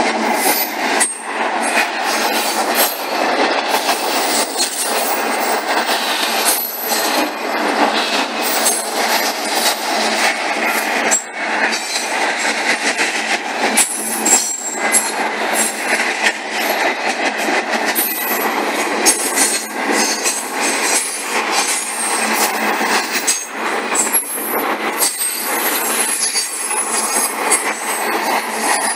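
CSX intermodal freight train's cars rolling past: a steady loud clatter of steel wheels on rail, with frequent sharp clacks over the joints and crossing and high-pitched wheel squeals that come and go.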